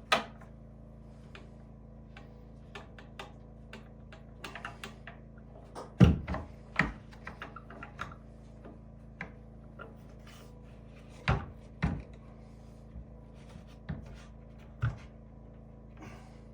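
Wooden knocks, clunks and light clicks from handling and fitting wooden cabinet doors, irregular and spread out, the loudest knock about six seconds in and two more close together later on.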